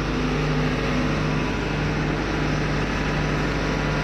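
Steady drone of a ship's running engine machinery, a constant low hum with an even mechanical noise over it.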